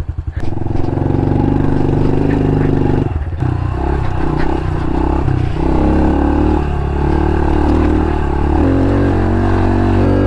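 Honda CRF110 pit bike's small single-cylinder four-stroke engine running, its pitch rising and falling as the throttle is worked, with a brief dip about three seconds in.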